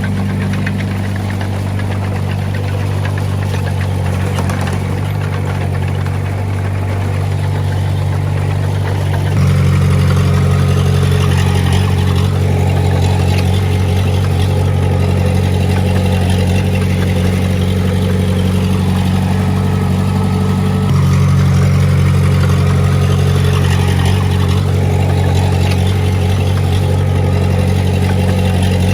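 A heavy machine's diesel engine running steadily, stepping up louder about nine seconds in and again about twenty-one seconds in.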